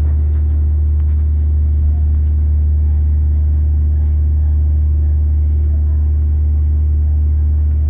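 Loud, steady low hum of a machine or motor running without change, with a few faint ticks.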